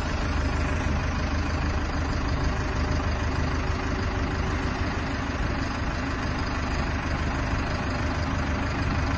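Hydrema dump truck's diesel engine running steadily at low revs, an even, unchanging engine note.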